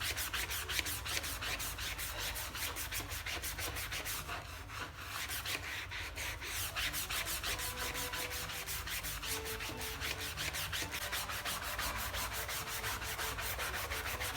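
Scrubbing on a fabric mouse pad with a soapy sponge, a fast, even run of rubbing strokes that eases off briefly about four to six seconds in.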